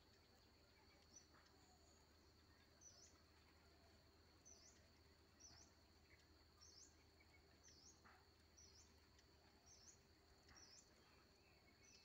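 Faint, short high chirps of a small bird, repeated about once a second, over a steady high whine and a low hum.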